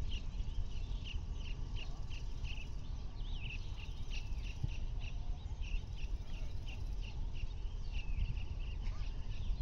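Birds chirping in a steady run of short, high calls, about three a second, over a continuous low rumble.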